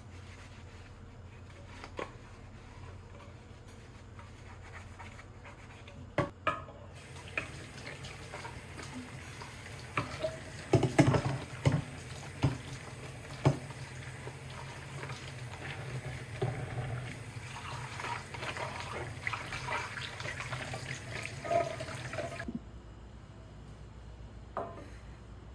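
Water running from a tap for about fifteen seconds, starting and stopping abruptly, with clinks and knocks around it, loudest soon after it starts.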